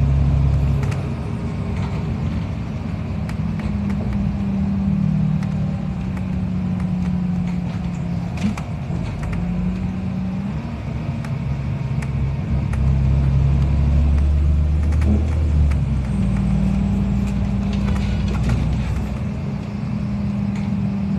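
A NefAZ-5299 city bus under way, heard from inside: a steady engine drone whose pitch steps up and down several times as the bus speeds up and slows, with light rattles and clicks throughout.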